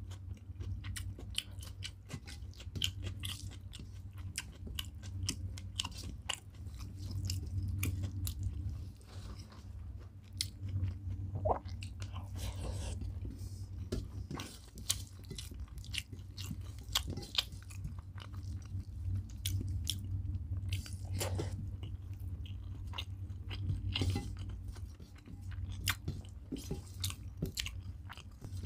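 A person chewing mouthfuls of hand-mixed rice and curry close to the microphone: a dense run of quick, wet mouth clicks and smacks, over a steady low hum.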